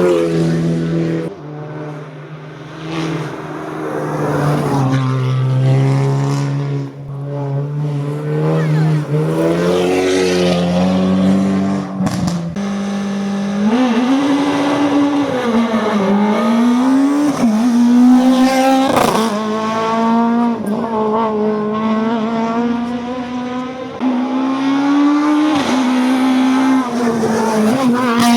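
Competition car engine under hard acceleration, its pitch climbing and then stepping down again and again as it shifts through the gears.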